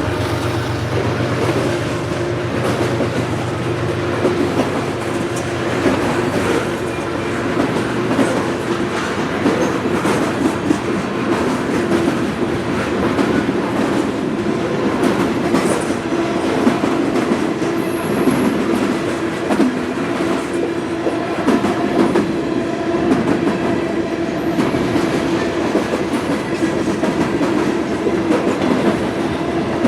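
Freight train cars rolling steadily past, steel wheels on the rails making a continuous rumbling clatter, with a faint high wheel squeal a couple of times after the middle.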